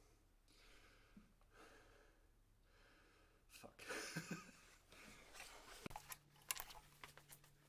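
Near silence with faint handling noises: a brief rustle about four seconds in, then a few light clicks and a low steady hum starting near the end.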